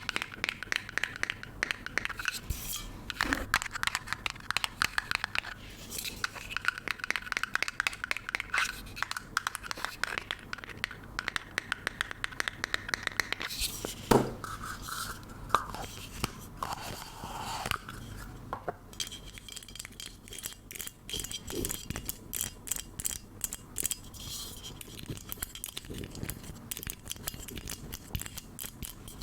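Close-miked ASMR trigger sounds: quick taps, scratches and crinkles on small objects. There is a sharp knock about fourteen seconds in, and a run of fast, even tapping through the last ten seconds.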